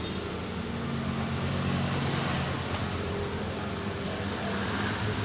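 Steady low mechanical hum, like an engine running.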